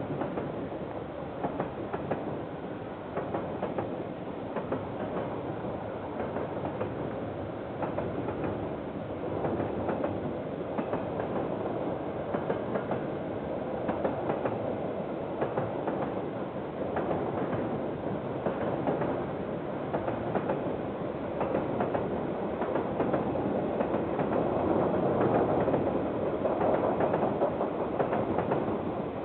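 KiwiRail freight train's wagons rolling past, a steady rumble with repeated wheel clicks over the rail joints, growing somewhat louder in the last third.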